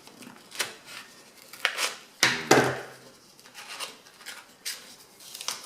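A sheet of paper being folded by hand: a string of crisp rustles and creasing strokes at irregular intervals, the loudest a little after two seconds in.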